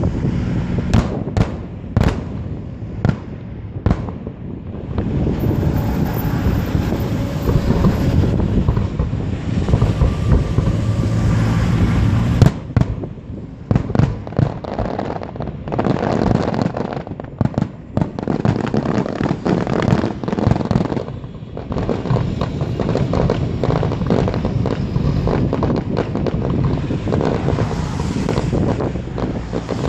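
Aerial fireworks display: a run of separate sharp bangs, then dense crackling, rumbling barrages, with more single bangs about halfway through.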